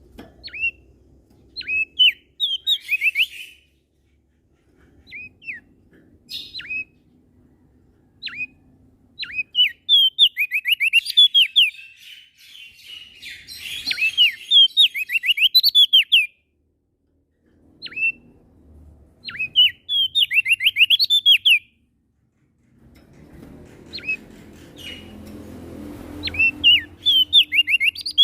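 Prenjak daun singing repeated phrases of quick, high sliding notes, each burst lasting a second or two with short pauses between. A faint low hum sits underneath at times, strongest near the end.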